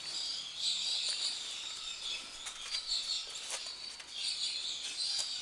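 Birds chirping over a steady outdoor background, with a few faint knocks.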